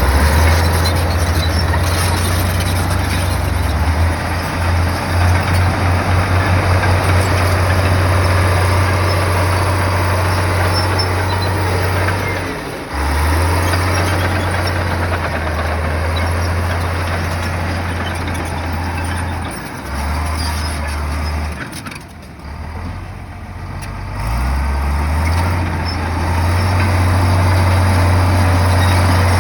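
Bulldozer's diesel engine running under changing load, its low tone shifting and easing off twice before settling back to a steady run near the end.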